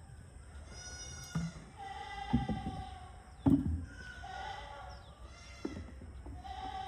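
Goats bleating, several calls one after another, some overlapping. A few dull thumps fall among them, the loudest near the middle.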